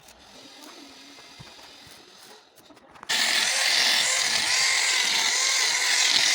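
Stick (arc) welding: the electrode arc strikes suddenly about three seconds in and then burns with a loud, steady hiss, after a quieter stretch of faint noise.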